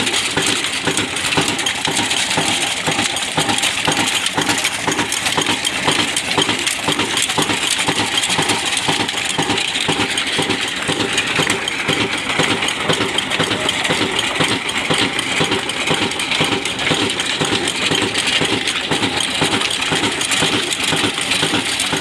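Old stationary engine running steadily while driving a chakki flour mill, a fast even beat under a constant metallic clatter and rattle from the mill machinery.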